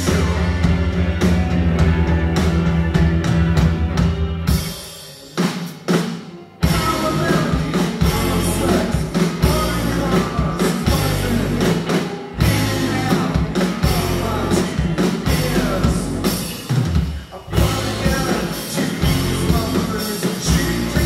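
Rock band playing live with drum kit and singing. The band drops out briefly about five seconds in, then comes back in full a second or two later.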